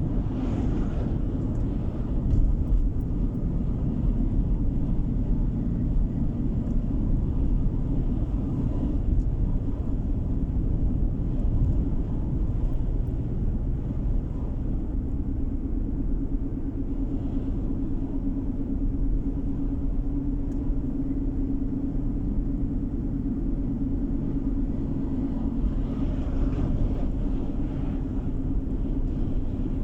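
Road noise of a car being driven: a steady low rumble of tyres and engine, with a steady hum that grows a little stronger from about halfway through.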